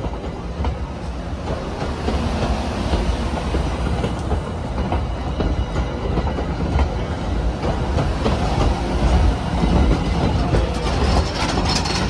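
Passenger railroad coaches rolling past close by: a steady low rumble of the wheels on the track with a run of clicks from the rail joints.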